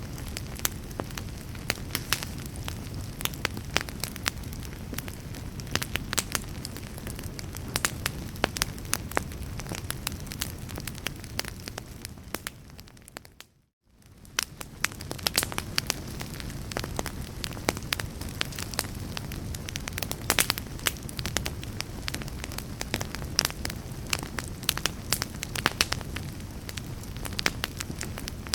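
Wood fire in a fireplace crackling, with frequent sharp pops and snaps over a steady low rumble of flame. About halfway through, the sound fades out to a brief silence and then fades back in.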